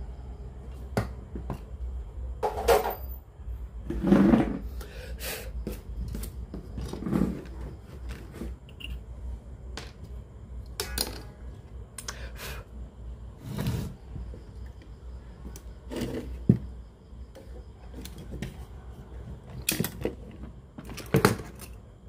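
Irregular clicks, taps and short scraping rattles of small parts and tools being handled on a workbench, over a steady low hum.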